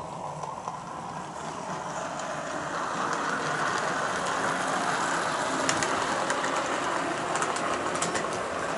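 OO gauge model locomotive running on the layout track, a steady electric-motor and wheel whirr that grows louder over the first three seconds and then holds, with a few faint clicks.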